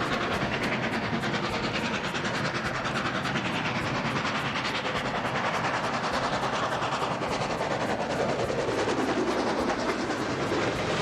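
A train running past at speed, its wheels clattering rapidly over the rails, with the rush of its passing dropping in pitch midway through.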